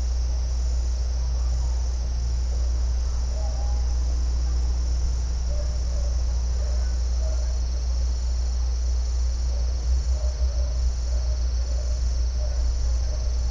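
Crickets chirping in a steady high, pulsing chorus, over a constant low rumble, with faint short calls scattered through it.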